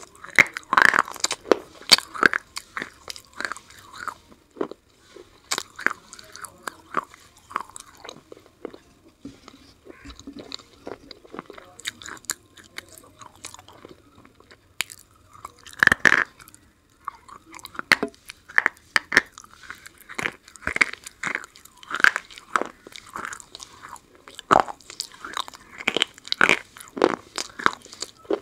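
Close-up eating sounds: a person biting and chewing something crunchy, with irregular crisp crunches. The loudest crunch comes a little past halfway, and there is a quieter, sparser stretch about a third of the way in.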